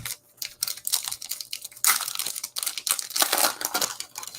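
A trading-card pack wrapper being torn open and crinkled by hand, a dense crackling with louder stretches a little under two seconds in and again past three seconds.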